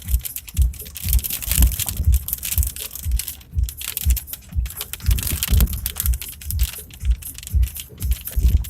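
Irregular low thumps, about one or two a second, over a steady crackling hiss, heard from inside a vehicle driving through a storm.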